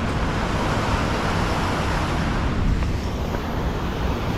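Steady rushing noise of water pouring out of a dam chute, with a deep low rumble and no breaks.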